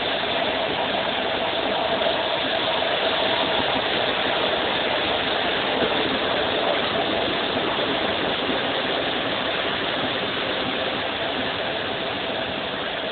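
Steady running noise of a moving passenger train heard inside a compartment: the rush of the wheels on the rails and the air outside, with a faint steady hum.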